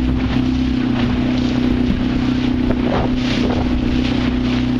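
Boat's outboard motor running at a steady speed, its constant drone mixed with wind buffeting the microphone.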